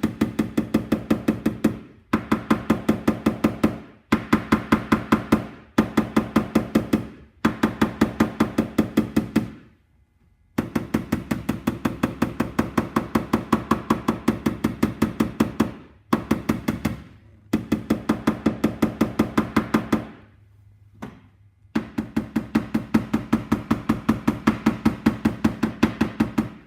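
PDR blending hammer tapping on a car door's sheet-metal skin to knock down a high spot, in runs of quick, light, evenly spaced taps, about six a second, with short pauses between runs. Each tap gives a brief ringing note from the panel.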